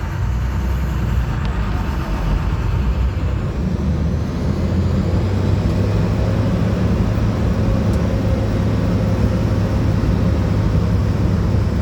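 Amphibious duck tour vehicle's engine running steadily as it drives, a steady low drone.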